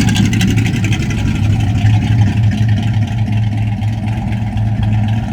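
Car engine running steadily at idle close by, a loud even hum with no revving.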